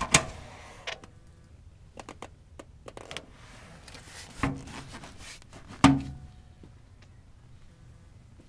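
A series of sharp knocks and clunks with light ticks between them; the loudest comes about six seconds in and is followed by a brief low ring.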